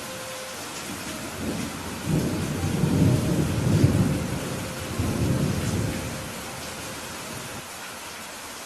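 Steady rain hissing, with thunder rumbling low in two swells through the middle, the first the longer and louder.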